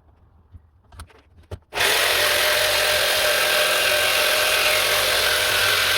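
A handheld electric power tool working wood. It starts about two seconds in after a few light clicks and runs steadily under load to the end.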